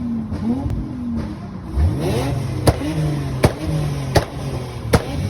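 Car engine being revved up and down, with one sharp rev about two seconds in. Short sharp cracks sound about every three-quarters of a second over it.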